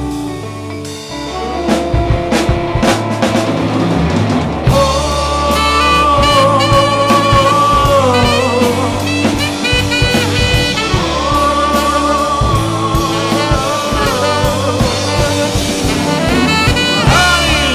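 Rock and roll band playing an instrumental break: the drum kit comes in after a couple of seconds, and a saxophone plays a wavering lead melody over the drums from about five seconds in.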